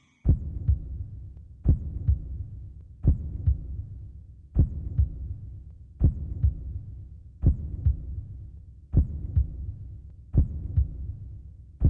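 Heartbeat sound effect: a slow, steady lub-dub, a deep double thump about every second and a half over a low hum. It starts suddenly right at the beginning.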